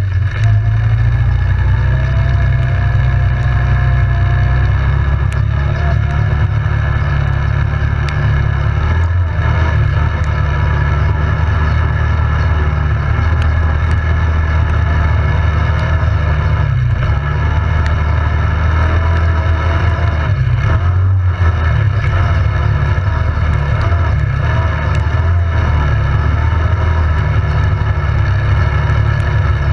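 ATV engine running steadily while riding, its pitch wavering slightly with small changes in throttle, over a heavy low rumble.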